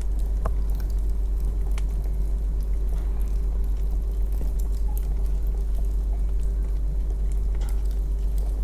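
Wood fire burning in a fireplace: scattered sharp crackles and pops over a steady low rumble, with a faint steady hum underneath.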